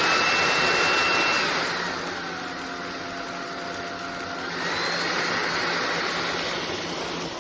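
SunSare X11 cordless stick vacuum running as its power modes are switched. The motor whine drops to a lower, quieter speed about two seconds in, then rises to a higher speed again about four and a half seconds in.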